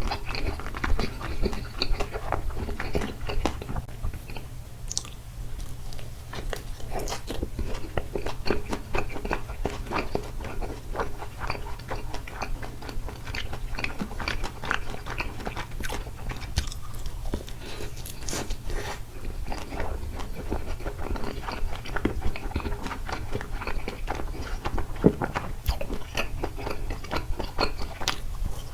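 A person chewing takoyaki close to the microphone, with many small mouth clicks.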